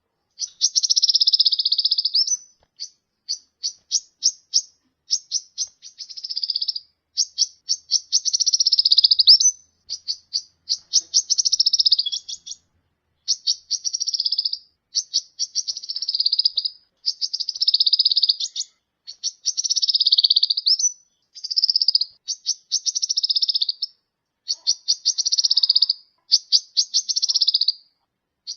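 Sunbird (kolibri) singing a high, fast song: buzzy trills of a second or two alternate with rapid runs of sharp ticking notes, phrase after phrase with short pauses between.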